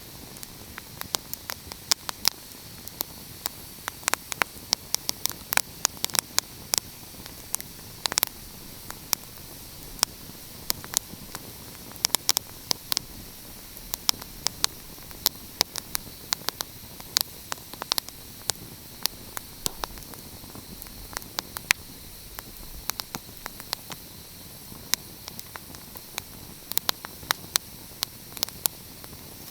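Wood fire crackling: frequent, irregular sharp pops and snaps over a steady hiss.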